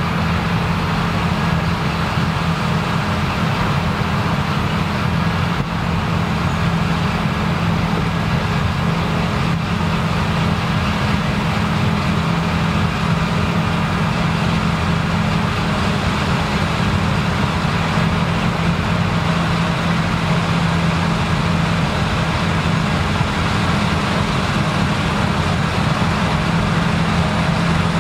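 Claas Lexion combine harvester running steadily under load while harvesting rye, its engine and threshing machinery giving a constant deep hum over a dense mechanical rush.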